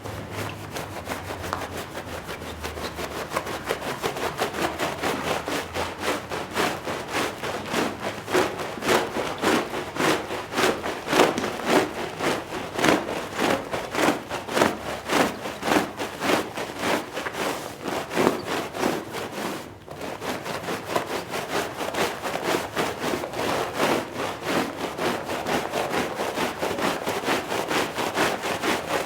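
Stiff brush scrubbing a wet, muddy shag rug in repeated back-and-forth strokes, about two a second, with a brief pause about two-thirds of the way through.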